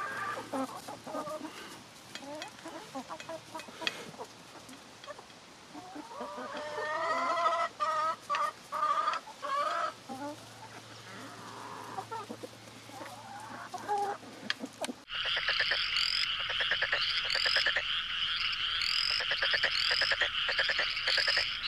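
Backyard chickens clucking, in short scattered calls. About 15 seconds in, a sudden cut gives way to a steady high-pitched sound with a chirp that repeats about once a second.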